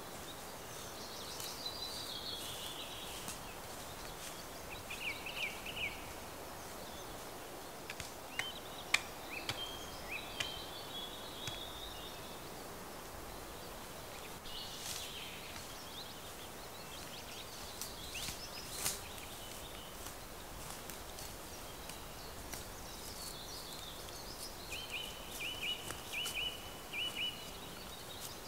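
Woodland songbirds singing in short phrases, with descending chirped runs and brief trills coming every few seconds, over a steady breeze in the trees. Occasional footsteps and small snaps sound on the forest floor.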